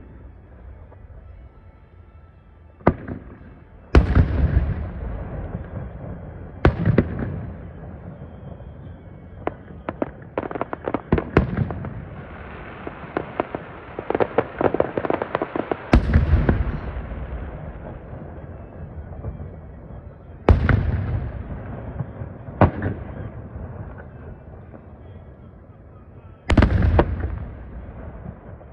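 Aerial fireworks shells bursting: loud booms every few seconds, each trailing off in a rumble, and in the middle a long run of rapid crackling pops.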